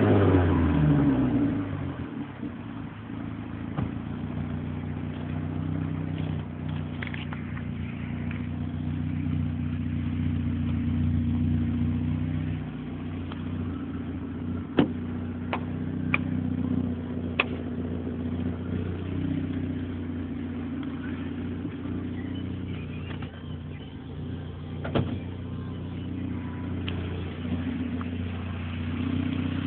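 Opel Corsa B GSi's four-cylinder engine, fitted with throttle bodies and an exhaust without a middle silencer, falling back from a rev in the first two seconds and then idling steadily. A few short sharp clicks come over the idle.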